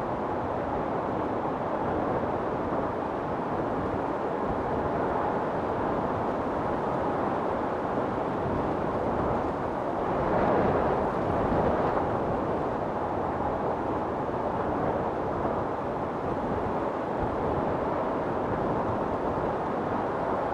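Storm wind blowing in a steady, deep rush, swelling into a stronger gust about halfway through.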